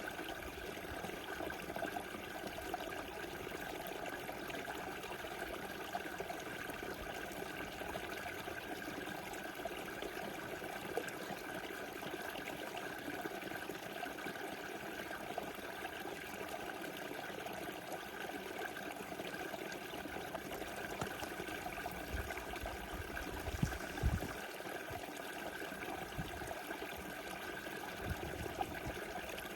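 Small river flowing steadily, an even rushing and trickling of water. A few brief low bumps occur about three-quarters of the way through.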